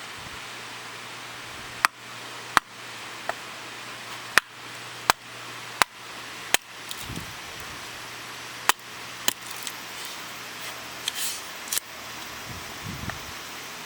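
A series of sharp knocks, most about 0.7 seconds apart with a few gaps, over a steady hiss, ending in a brief soft rustling.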